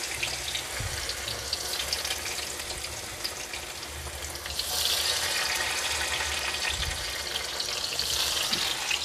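Tofu deep-frying in hot oil in a wok: a steady crackling sizzle that grows a little louder from about halfway through.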